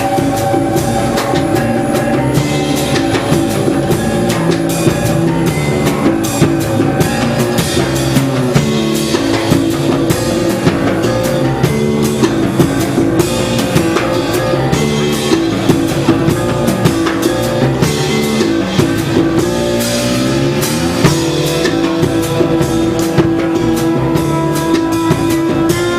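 Five-piece jazz band playing live, with a busy drum kit under long held melody notes. About twenty seconds in, a run of sliding notes settles into one held note.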